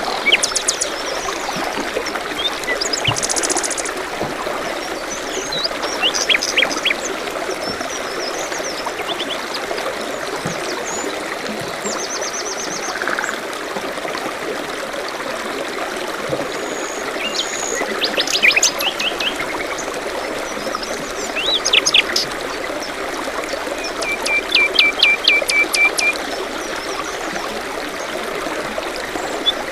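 Small birds chirping and trilling in bursts over the steady trickle of a forest stream, with a run of quick repeated notes near the end.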